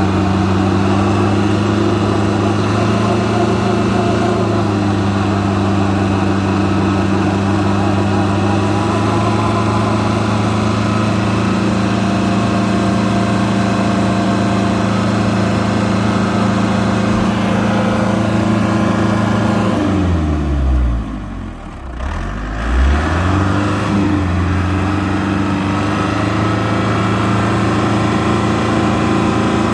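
Engine of an Isuzu Elf crane truck running at steady raised revs to power its hydraulic crane. About twenty seconds in the revs drop sharply, then pick back up to the same steady speed a couple of seconds later.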